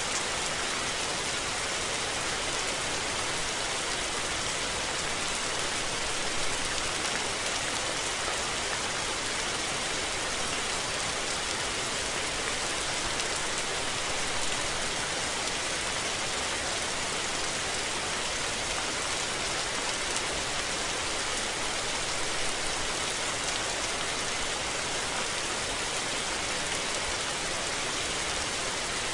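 Steady rain falling, an even, dense hiss of many drops that holds at one level throughout.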